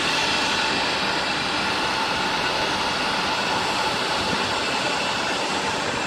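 Jet airliner engines running steadily, a constant rushing noise with a thin high whine over it.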